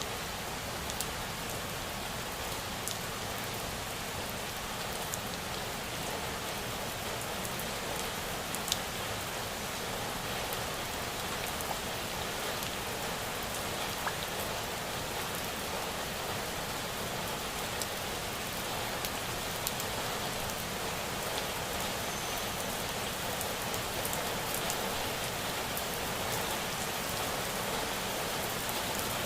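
Steady rain falling, with scattered individual drops ticking now and then.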